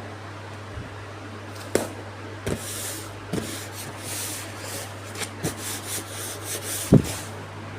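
Packaging being handled: scratchy rustling and rubbing with several sharp knocks, the loudest near the end, over a steady low hum.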